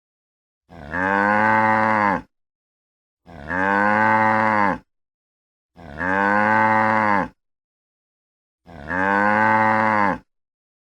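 Cow mooing: four identical long moos at even intervals, each about a second and a half, with dead silence between.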